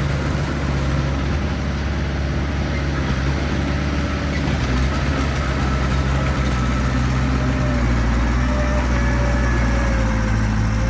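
Mini bulldozer's diesel engine running steadily as it works soil, a deep drone that changes pitch about halfway through, with a faint whine above it.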